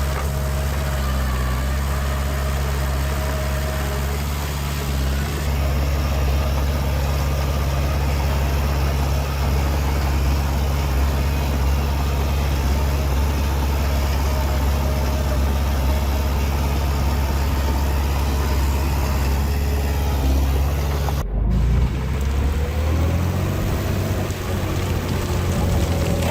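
Heavy diesel engine of earthmoving machinery running steadily at low revs. About 21 seconds in there is an abrupt break, after which the engine note climbs slowly.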